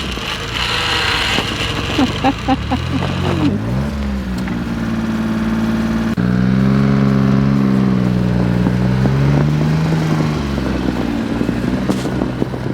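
Mini truck's engine running and revving as it tries to drive out of deep snow, the pitch climbing about three seconds in and running harder from about six seconds in, rising and falling.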